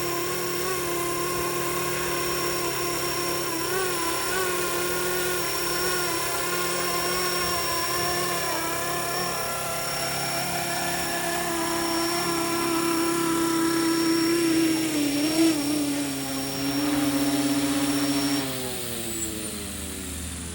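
500-size RC scale helicopter's motor and rotor running, a steady whine whose pitch wavers slightly with the throttle; about eighteen seconds in a high tone cuts out and the pitch falls steadily as the rotor spools down.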